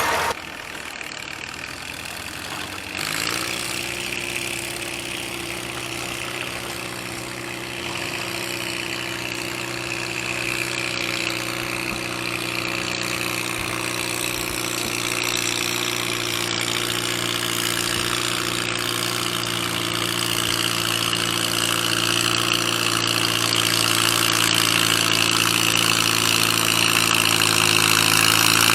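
A gas farm tractor's engine running steadily at a constant pitch under load in a tractor pull. It comes in about three seconds in and grows gradually louder.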